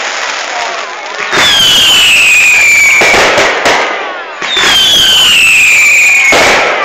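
Fireworks going off loudly: dense crackling bursts that start suddenly three times, and twice a high whistle that falls steadily in pitch over a second or two.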